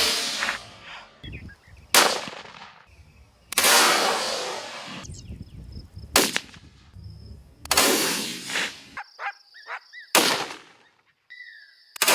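Rifle shots in a coyote hunt, about six in a row, one every second and a half to two seconds, each with a long trailing echo and some cut off suddenly.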